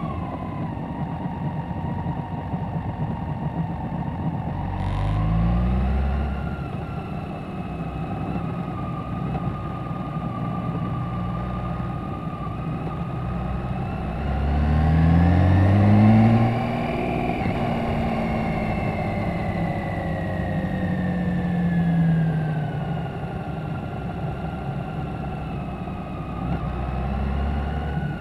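BMW K1600GT's inline-six engine heard from an onboard camera at low speed, with steady wind and road noise on the microphone. The engine pulls up in pitch twice, briefly about five seconds in and more strongly around fourteen to sixteen seconds, the loudest moment, then its note falls away slowly as the bike slows.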